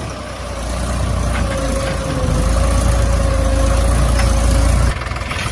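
Small electric motor of a miniature DIY tractor running steadily with a thin whine over a low rumble; the rumble drops off about five seconds in.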